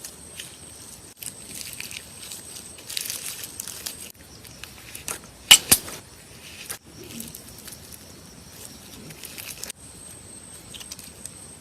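Slime being squished and poked, making small crackling clicks, with two sharp pops close together about halfway through.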